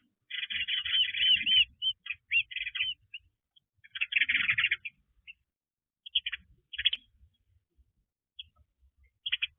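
Birds chirping in bouts of quick, short, arched notes, with pauses of a second or more between the bouts.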